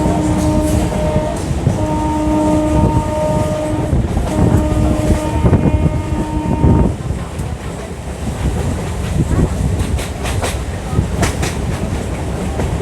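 Electric local train (EMU) running, with a steady rumble of the wheels on the rails. A steady-pitched horn sounds in three long blasts that stop about seven seconds in, and a few sharp metallic clanks follow near the end.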